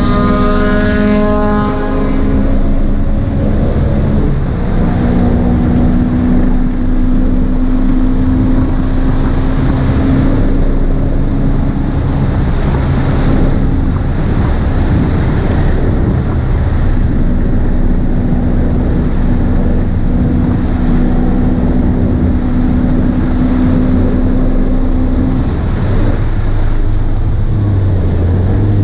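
2008 BMW E92 M3's S65 V8 with an X-pipe exhaust at full throttle, heard from inside the cabin. It shifts up once a few seconds in, then holds a steady high-rev note, and near the end the revs drop as the car brakes.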